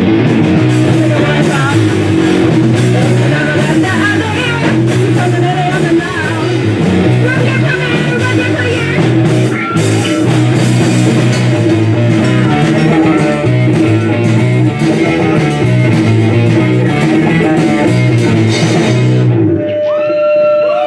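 Rock band playing loudly on guitar, bass and drum kit. The music cuts off suddenly near the end, leaving a few clear held tones that jump up and down in pitch.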